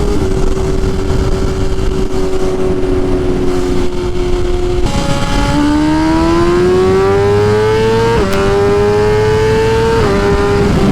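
BMW S1000RR sport bike's inline-four engine holding a steady pitch for about five seconds, then accelerating with its pitch climbing, broken by an upshift about two thirds of the way in and another near the end.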